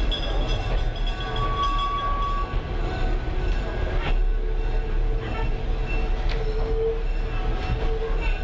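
Train rolling along the track, heard from aboard a caboose: a steady low rumble of wheels on rail, with thin squealing tones that come and go and a couple of sharp clanks.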